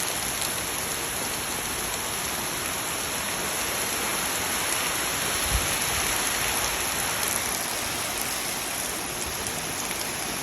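Heavy rain pouring down and pattering on the ground, a steady hiss, with one brief low thump about halfway through.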